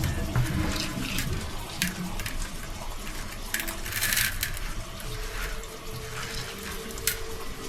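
Washing by hand in water: irregular splashes with small hard clinks and rattles, heaviest about halfway through.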